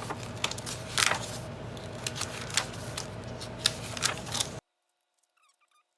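Paper pages of an old book rustling and crackling as a signature is worked loose from the binding, with sharp cracks of brittle glue. The sound cuts off abruptly about four and a half seconds in.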